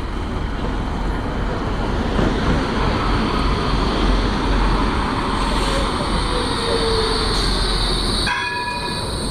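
A rail vehicle running past with a steady rumble. A high-pitched wheel squeal comes in about halfway through. Near the end the sound changes abruptly and a short horn-like tone sounds.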